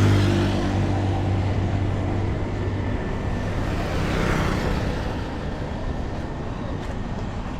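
Street traffic: a motor vehicle's engine hums loudly close by at the start and fades over a second or so, then another vehicle swells past about four seconds in, over a steady traffic hum.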